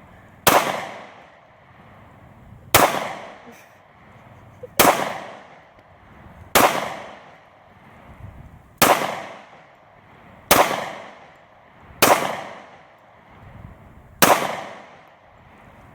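Eight gunshots fired one at a time at a steady pace, about one every two seconds, each sharp crack followed by a ringing tail that dies away over about a second.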